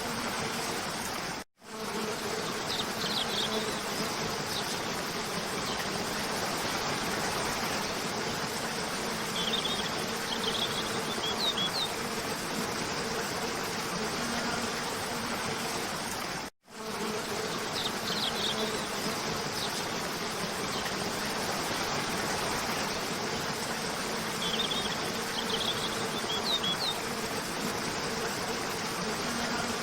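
Steady rushing of a cascading waterfall with a low steady hum, and short high chirps from small songbirds four times. Twice the sound cuts out for a moment and the same stretch starts over, about every 15 seconds, as a looped soundtrack does.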